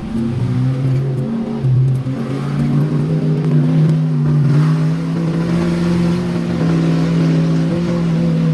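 Four-wheel-drive truck's engine running under load while driving in four-high, its note rising about two seconds in and then holding steady.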